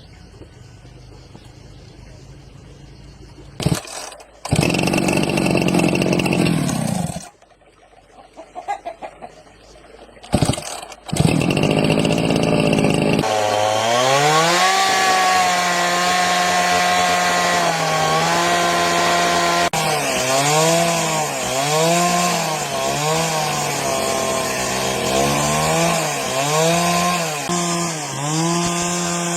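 Chainsaw engine starting, running briefly and dying, then catching again and running at high speed. From about halfway through, its pitch sags and recovers roughly once a second, as it does when the chain bites into wood.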